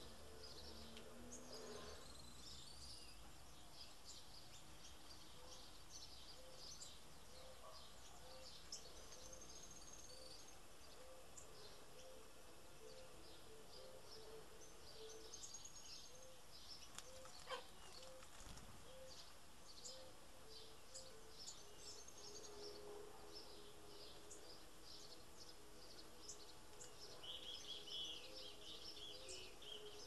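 Faint birdsong: many small birds chirping with short high notes, over a soft low note that repeats about one and a half times a second. A louder run of chirps comes near the end.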